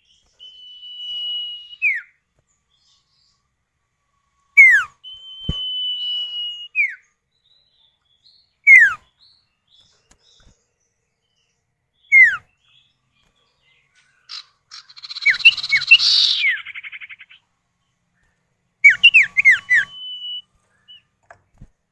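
Common iora (sirtu/cipoh) calls, male and female answering each other. Two long level whistles each end in a downward slur, short sharp down-slurred notes come every few seconds, and a harsh rattling chatter breaks in around the middle and again near the end.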